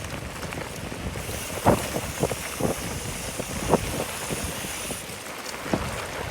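Wind buffeting the microphone over the rumble of a bicycle riding a rural road, with a handful of sharp knocks and rattles as it goes over bumps.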